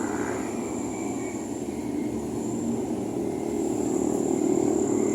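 Motorcycle engines running in the street: a steady drone that grows louder a little past halfway, with a thin high whine over it.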